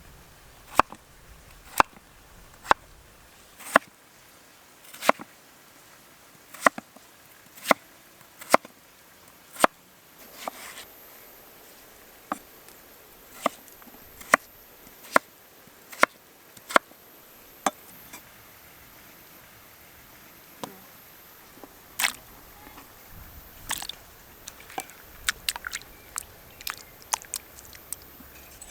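Knife chopping on a cutting board: sharp, regular strokes about one a second, then sparser, lighter taps with a few quick clusters near the end.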